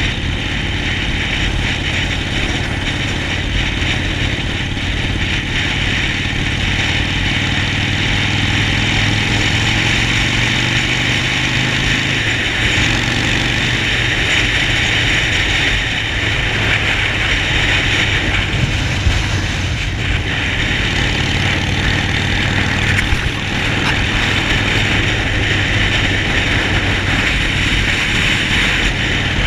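Harley-Davidson Sportster 48's air-cooled V-twin engine running steadily, with its low pitch shifting slightly about a third of the way through, over a steady hiss.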